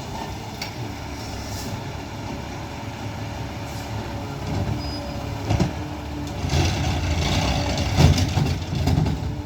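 Peterbilt 520 McNeilus ZR garbage truck running, a steady low rumble with a sharp knock about five and a half seconds in, then growing louder for a few seconds before easing off near the end.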